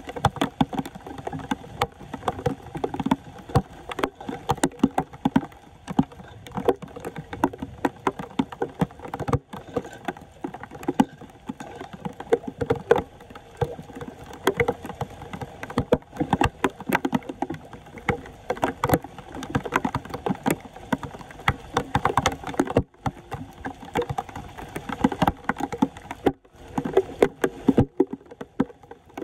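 Floodwater splashing and sloshing: a dense, irregular run of small splashes and pops.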